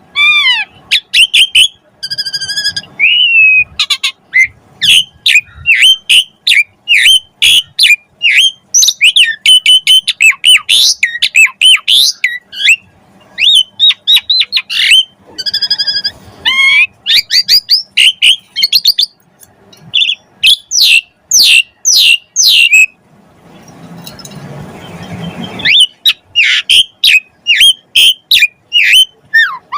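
Pied starling (jalak suren) singing a loud, rapid song of sharp whistles, squawks and chattering notes, with a harsh rasping stretch about 24 seconds in.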